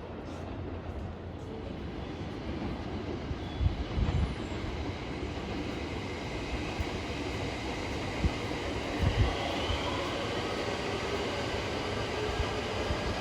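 A train running past on the rails, a steady rumble of wheels that slowly grows louder, with a few low thumps of wind buffeting the microphone.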